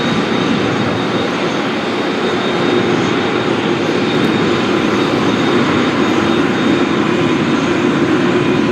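Airliner engines running, a steady loud rushing noise with a faint high whine, swelling slightly a few seconds in.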